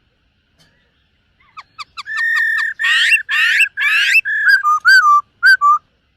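Black-throated laughingthrush singing: after a quiet start, a few quick rising notes lead into a loud run of clear whistles held near one pitch, overlaid with fast warbling runs, then shorter whistled phrases near the end.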